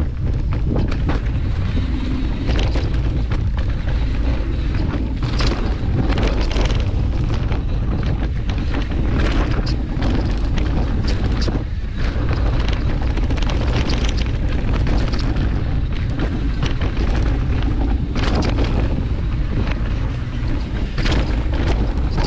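Wind buffeting a GoPro's microphone during a fast mountain-bike descent, a steady heavy rumble, with frequent short clattering from the bike and tyres over bumps and jumps.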